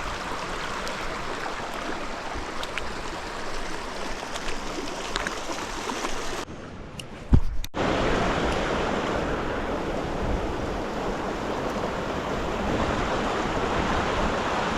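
Mountain creek water rushing over rocks, a steady wash. A little under halfway it briefly drops away with a single low thump, then returns louder.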